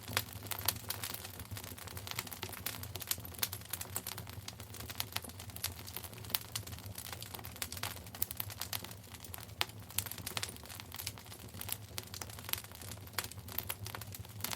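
Wood fire in a fireplace crackling steadily, with many irregular sharp pops and snaps over a low, even burning rumble.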